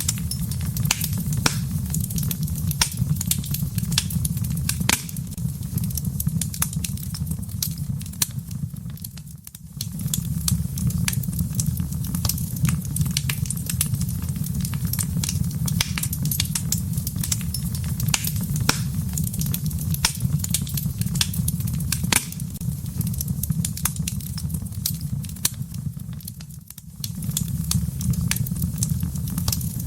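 Wood fire burning in a fireplace: frequent sharp crackles and pops over a steady low rumble. The sound briefly fades twice, about a third of the way in and again near the end.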